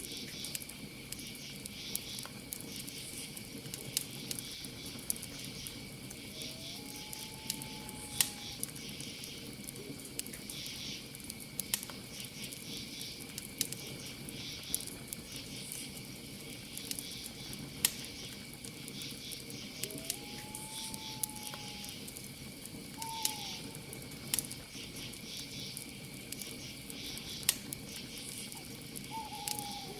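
Campfire crackling, with sharp pops every second or two over a steady chorus of crickets. A few short calls that slide slightly down in pitch come in about a third of the way through, twice about two-thirds through, and once near the end.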